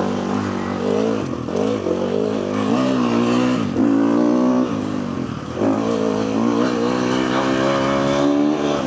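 KTM 250 four-stroke motocross bike engine being ridden hard, its pitch climbing under throttle and dropping back several times as the throttle is rolled off and on.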